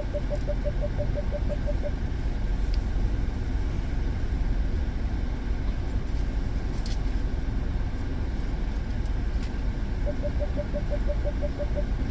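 Car engine idling with a steady low rumble. Twice, once at the start and once near the end, a quick run of short, even beeps sounds at one pitch, about six a second.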